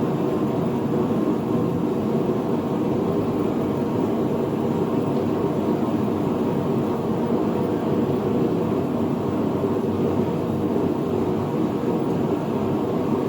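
Steady roar of a blacksmith's forge running, an even, unbroken rushing sound while the iron heats for twisting.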